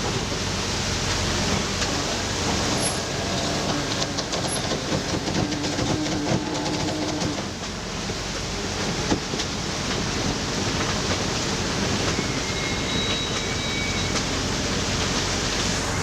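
Steady rush of strong wind and water aboard a large sailboat under sail, with wind buffeting the microphone.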